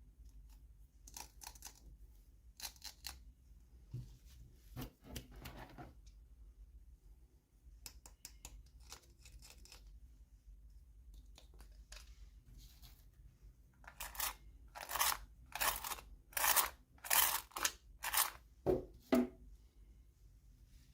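Toy packaging being opened by hand: scattered short rustles, then a run of about six louder rustling strokes, roughly two a second, in the second half.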